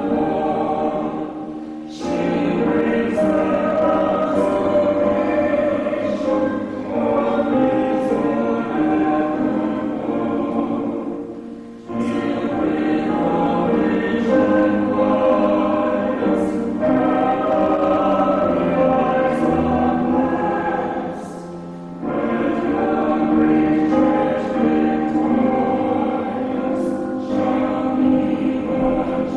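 Hymn sung by a small vocal group with piano accompaniment, in long sustained phrases with brief breaths between them about every ten seconds.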